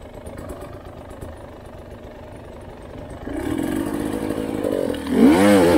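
Enduro motorcycle engine running low, growing louder about three seconds in, then revved up and down in quick throttle blips near the end.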